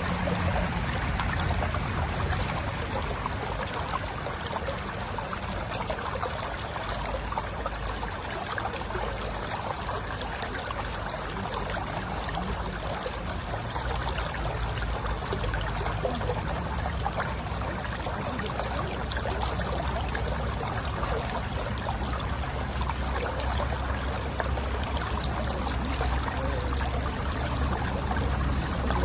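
Mountain river flowing over rocks: a steady rush and gurgle of water with a deep low rumble beneath.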